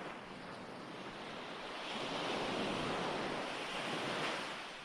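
Recorded ocean waves: a steady wash of surf that swells about a second and a half in and eases off again near the end, as one wave breaks and draws back.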